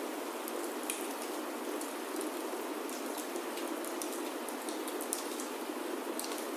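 Steady rain falling on a wooden roof, an even hiss with scattered sharp crackles of a wood fire burning in a fireplace.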